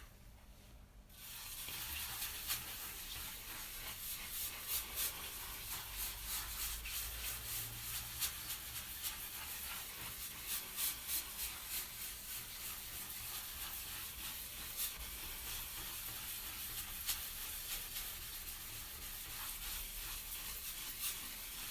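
Damp sponge loaded with fireplace ash scrubbing sooty fireplace glass: a steady rubbing hiss with many small scratches and clicks, starting about a second in.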